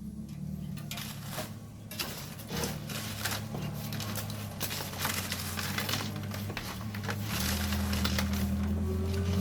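Hand shovels scraping and tossing volcanic sand and gravel, a rapid irregular crunching and clatter, over a low steady hum that grows louder near the end.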